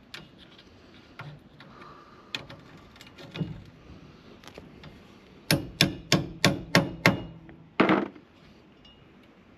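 Hammer blows on metal at the van's wheel hub, struck while working to free the seized Torx screws that hold the brake disc on. A few light taps and knocks come first, then a quick run of six sharp strikes at about three a second, and one more heavy blow shortly after.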